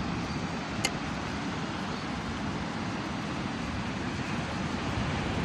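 Steady rushing of wind and ocean surf, with a single faint click about a second in.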